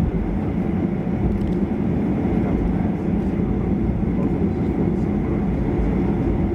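Steady low rumble of a Boeing 737-800 heard from inside the cabin while it taxis, its CFM56 engines at idle.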